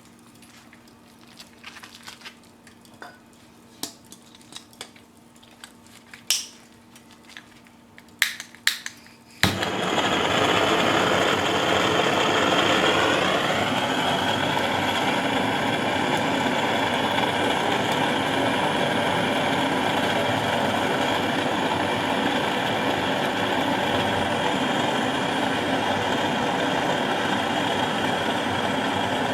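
A few light clicks and knocks, then about nine seconds in a handheld gas torch burner lights and runs with a loud, steady hiss. A tone within the hiss slides down a few seconds after it lights, then holds.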